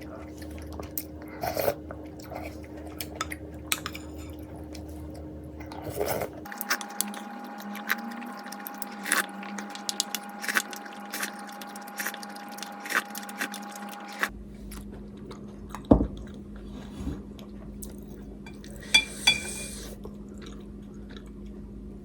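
Close-miked eating sounds of a mukbang: chewing of ramen noodles with frequent short clicks of utensils against a bowl. A loud clack comes about two-thirds of the way in, and two more near the end. A faint steady hum sits behind, shifting pitch abruptly twice.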